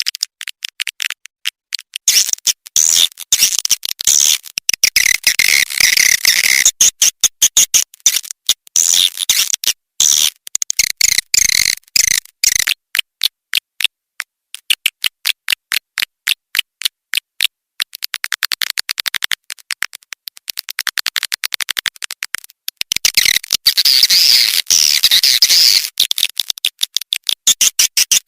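Swiftlet call recording, the kind of lure sound played in swiftlet nest houses: rapid high-pitched chattering calls mixed with trains of clicks. About halfway through, the chatter gives way for several seconds to sharp, evenly spaced clicks, and it returns near the end.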